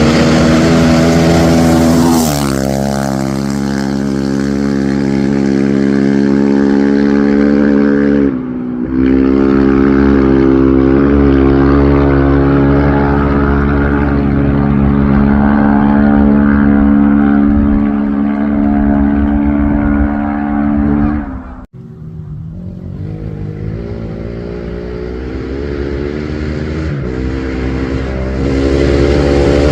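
Competition rally-raid vehicle's engine running hard under load. It steps down in pitch about two seconds in and dips briefly near eight seconds, then holds steady at high revs until about twenty-one seconds, where it cuts off abruptly and builds back up through the revs.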